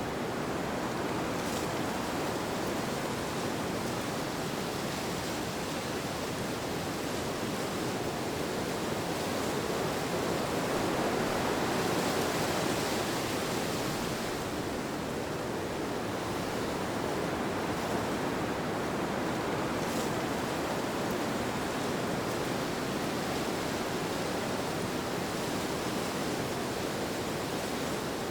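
Steady rushing wind, swelling a little about halfway through and easing off again.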